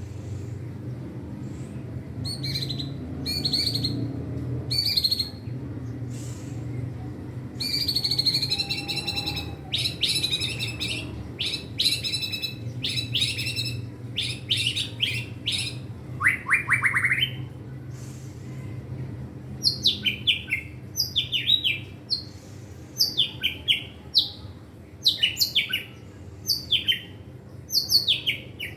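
White-rumped shama singing a loud, varied song of repeated trills and quick down-slurred whistles, stringing together learned mimicked phrases. It is a young bird practising its full song.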